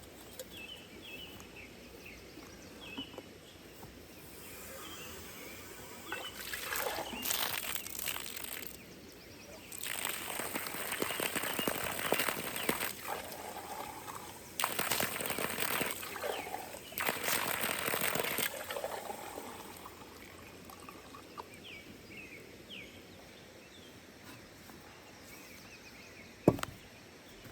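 Water being poured out in four pours over about twelve seconds, measuring two cups of water for cooking.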